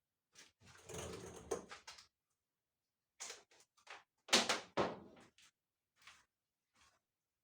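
Handling noises from a tumble dryer being taken apart: a scraping rattle of about a second and a half near the start, scattered clicks, and a few sharp knocks, the loudest about four and a half seconds in.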